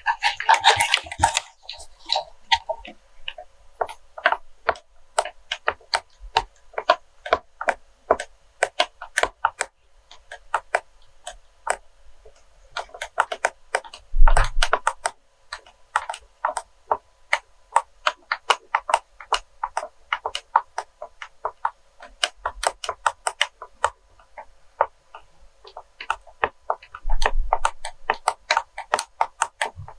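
ASMR tapping on wax melts: quick, irregular clicks, several a second, with a heavier knock around the middle and another near the end.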